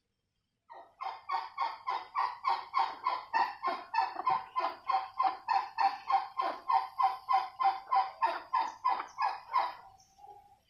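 Turkey calling: a long series of evenly repeated pitched notes, about three a second, that starts just under a second in and stops shortly before the end.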